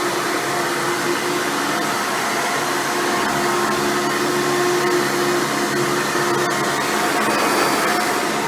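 Hoover Futura upright vacuum cleaner running steadily, its motor and fan giving a constant whir with steady tones.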